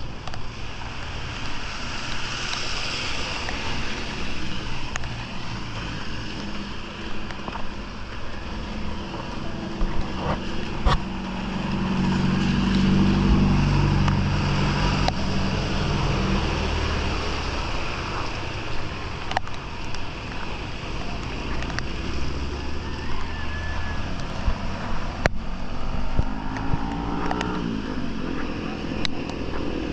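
Steady rushing water noise, with a motor vehicle's engine running nearby that grows loudest about twelve to sixteen seconds in and then fades. Scattered sharp clicks and knocks.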